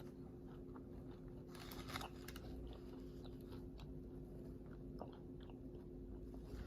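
Faint chewing of a crispy fried chicken sandwich: small crunches and wet mouth clicks, briefly louder about two seconds in.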